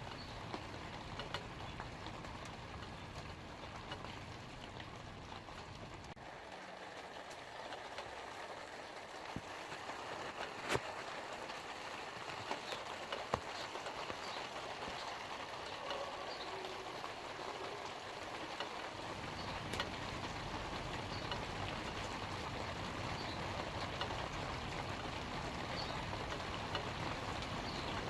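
Light rain falling on leaves: a steady patter with scattered sharper drop ticks. A low rumble underneath fades out about six seconds in and comes back after about nineteen seconds.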